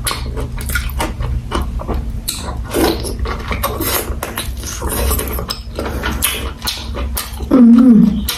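Close-miked wet chewing and lip-smacking as a woman eats boiled cow pizzle, with irregular mouth clicks throughout. Near the end comes a short, loud hummed "mmm" that falls in pitch.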